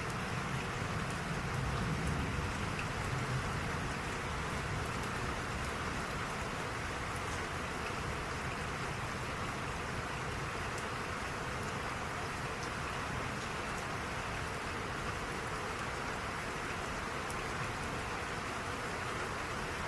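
Steady rain falling, with scattered drops ticking on a surface. A low rumble sits under it for the first few seconds.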